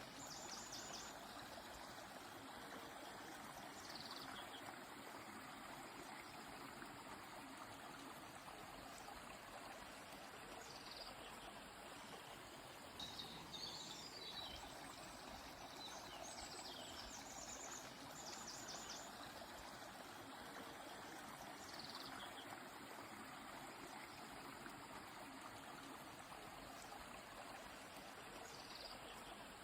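A stream flowing steadily, with small birds calling every few seconds over it: short high chirps, quick falling notes and rapid trills.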